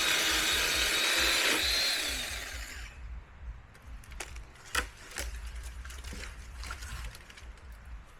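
Small electric chainsaw running with a high whine as it cuts wood. It is let off and winds down a couple of seconds in, followed by scattered sharp cracks and knocks.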